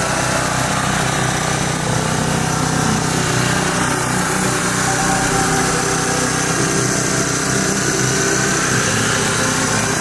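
A small motor running steadily at an even level.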